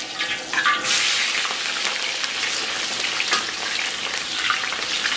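Scallion and ginger pieces frying in moderately hot oil in a wok, a steady sizzle with small crackles that starts suddenly about a second in as the pieces hit the oil, stirred with a metal spatula.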